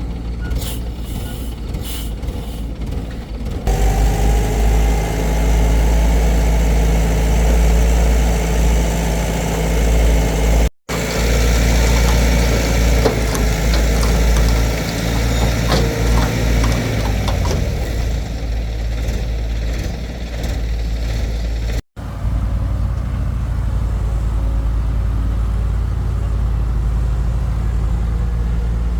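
Excavator engine running steadily, with scattered clanks in the middle stretch. The sound breaks off abruptly a few times where the clips are cut together.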